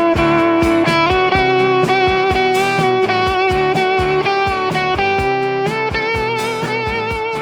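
Instrumental pop rock passage with no vocals: an electric guitar lead holds long notes with vibrato over a steady drum beat. The music slowly gets quieter toward the end.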